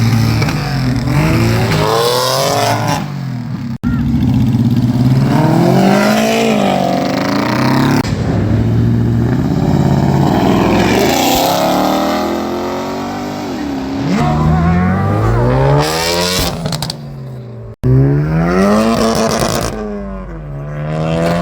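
Car engines revving and accelerating, their pitch climbing and falling again and again, with two sudden breaks in the sound.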